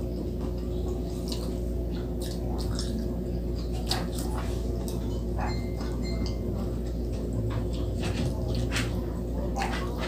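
Close-miked eating sounds: a person chewing fried frog, with scattered wet mouth clicks and smacks and fingers picking at the meat, over a steady low hum.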